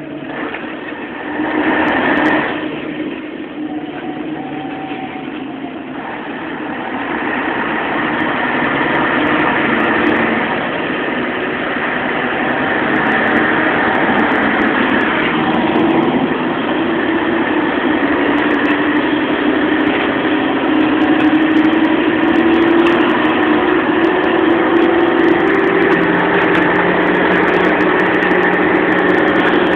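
Scania single-deck bus's diesel engine running, its note climbing slowly through the second half as the bus gathers speed, with a short loud burst of noise about two seconds in.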